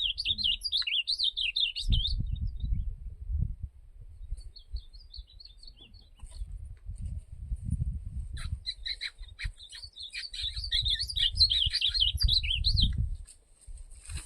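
Azulão (ultramarine grosbeak) singing a rapid warbled song in two bouts, one at the start and a longer one from about halfway to near the end, with a low rumble on the microphone underneath.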